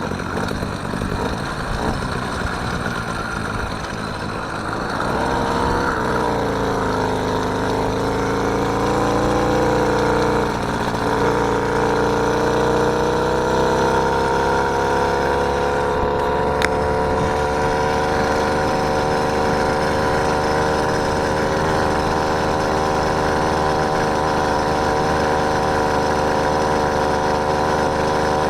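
Small engine of a motorised bicycle running while riding. About five seconds in its pitch climbs as it speeds up, drops briefly near the middle, then holds a steady drone that rises slowly.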